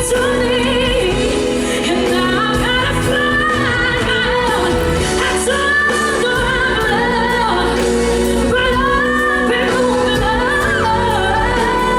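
A female pop vocalist singing a power ballad live with band accompaniment: long held notes with vibrato and sliding runs over sustained chords.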